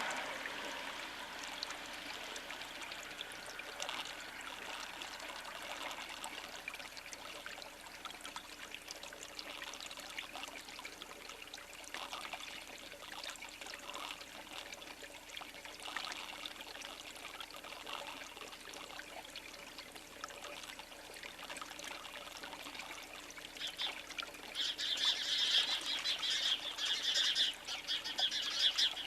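Small birds at a feeder: scattered faint ticks and occasional thin chirps, then about 24 seconds in a burst of loud, rapid chirping and chattering from several birds.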